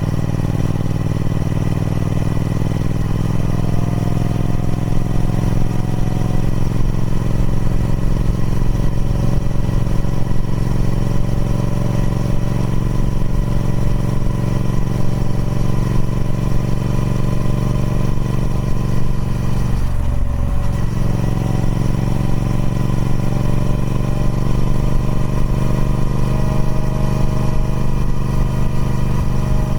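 Triumph Speed Twin 1200's 1200cc parallel-twin engine, on its stock exhaust, running at steady revs. There is a brief dip in the engine note about two-thirds of the way through before it settles back to the same steady pitch.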